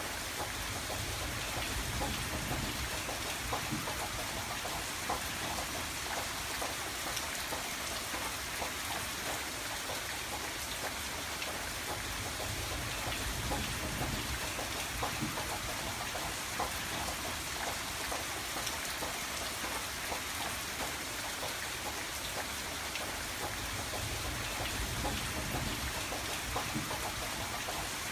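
Steady rain pattering on a window glass, a dense hiss full of small drop ticks. A low rumble underneath swells up a few times.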